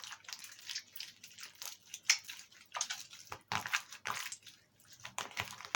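Hands kneading a soft jelly slime mixed with toothpaste and hand cream, making irregular wet squishes and small crackling clicks.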